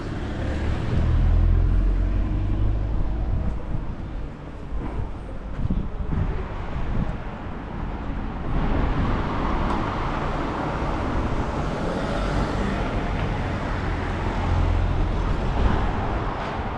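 Street traffic: motor vehicles passing by with engine rumble and tyre noise, louder about a second in and again near the end.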